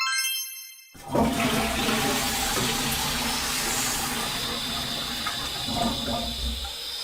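A short chime, then a toilet flushing: water rushing with a low rumble for about six seconds.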